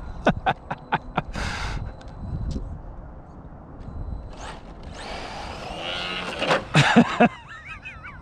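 Electric RC cars on a paved lot: a run of sharp knocks and clatters in the first second or so, then a car rushing close by with tyre noise and motor whine from about five seconds in, and a wavering whine near the end.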